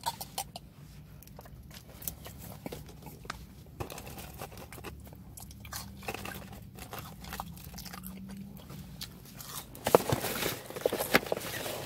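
Someone eating fries close to the microphone: small, scattered crunches and chewing. About ten seconds in, a paper bag crinkles and rustles as it is opened and a box is pulled from it.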